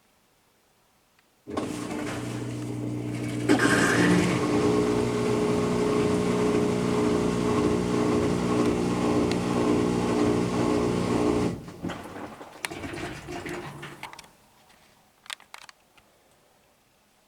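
Kenmore Series 500 high-efficiency washing machine running a burst of rushing water with a steady hum, starting suddenly and cutting off abruptly about ten seconds later, then some fading gurgling and a few clicks.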